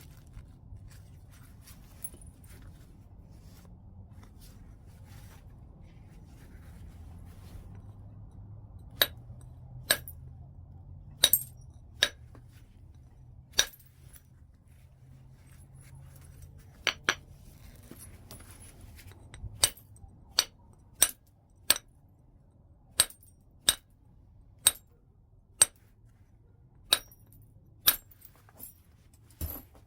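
White chert being knapped: sharp, glassy clicks of the stone being worked, about twenty of them at irregular intervals roughly a second apart, starting about a third of the way in after a stretch of only faint handling ticks.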